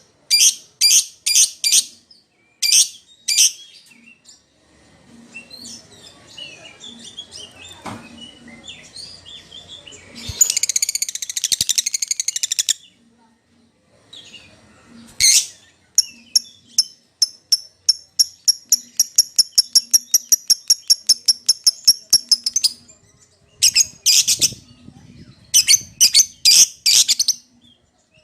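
Lovebird giving shrill, high-pitched calls in rapid groups, with a dense burst of chatter about ten seconds in and a long, fast run of calls after about sixteen seconds. These are contact calls to a companion or rival, used as a lure to make other lovebirds answer.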